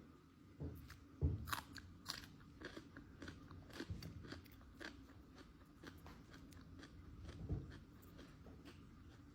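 Close-miked biting and chewing of crunchy fried chicken wings: a loud crunching bite about a second in, then a run of crackling chews, and another bite near the end.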